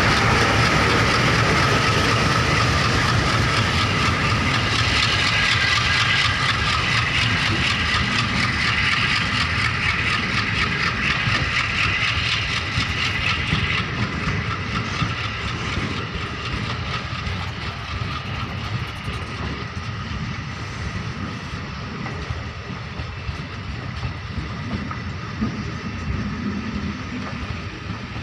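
MEMU train running past the platform: the steady rumble and rattle of its coaches on the track. A high steady whine sits over it for roughly the first half, and the whole sound slowly gets quieter.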